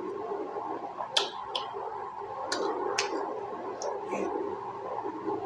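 Close-up chewing of juicy pork momos: wet mouth clicks and smacks, about five over the few seconds, over a steady background hum.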